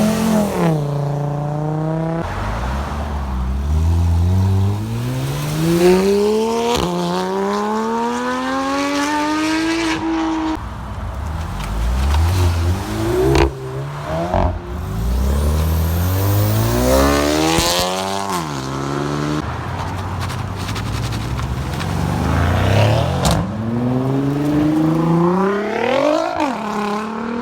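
Car engines revving and accelerating hard: the pitch climbs steadily over a few seconds, drops back and climbs again, several times over.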